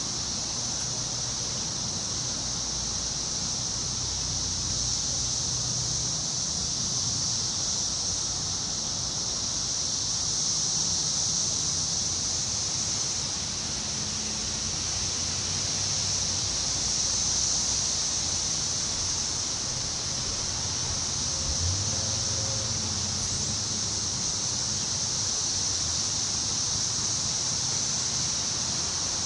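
Wind moving through forest trees, the rustle swelling and easing slowly, under a steady high-pitched hiss that runs unbroken, with a low rumble beneath.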